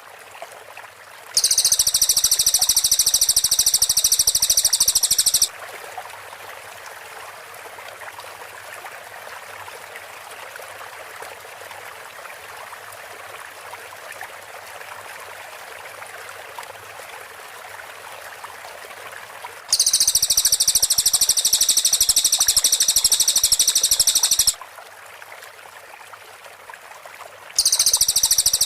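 Cililin bird song: three bursts of very rapid, tightly packed high-pitched notes, a fast rattling trill, over a steady background hiss. The first comes about a second and a half in, the second near the middle of the second half, the third near the end.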